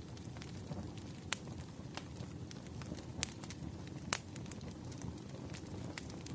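Campfire crackling: a steady low rumble of burning wood with scattered sharp pops and snaps, the loudest about four seconds in.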